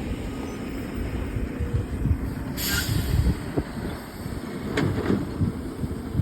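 Garbage truck running with a low, uneven rumble. A short hiss comes about two and a half seconds in, and a few knocks follow near the end.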